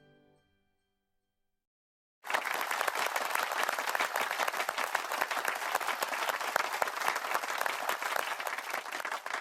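Applause from a crowd of clapping hands, starting suddenly about two seconds in after a silence and running on steadily.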